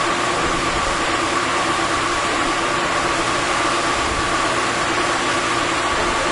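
Large metal-working lathe running steadily: a continuous mechanical noise with a constant high whine and a lower hum held at one pitch.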